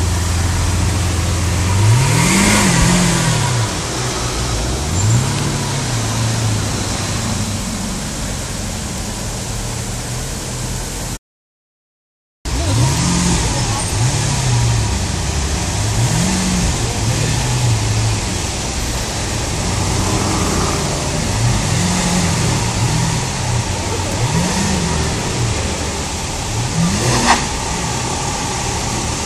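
Lamborghini Aventador LP700-4's V12 engine revved repeatedly from idle in short blips, each rise and fall lasting about a second. The sound cuts out completely for about a second midway.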